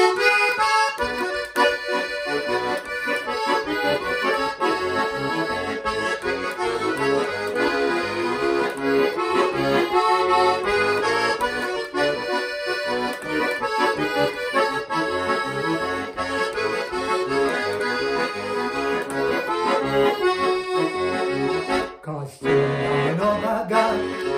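Bayan (Russian chromatic button accordion) playing a lively instrumental introduction to a Gypsy-style song, with a brief pause near the end.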